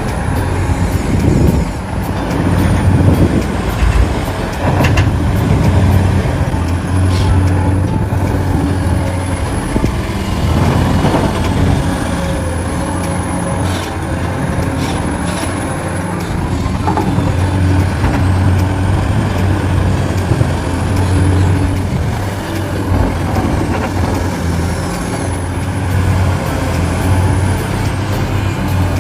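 A dump truck's engine running steadily with a low hum, with scattered clicks and knocks over it.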